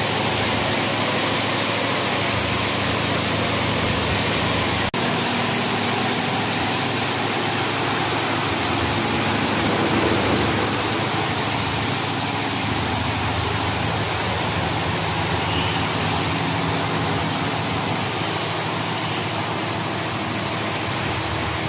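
Automatic car wash running: a steady rush of water spraying, with a low machine hum beneath. The sound cuts out for an instant about five seconds in.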